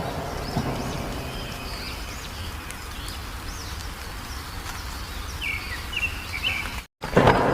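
Several wild birds chirping and whistling in short, high, rising-and-falling calls over a steady low background rumble. Near the end the sound cuts out for a moment and a louder noisy sound starts.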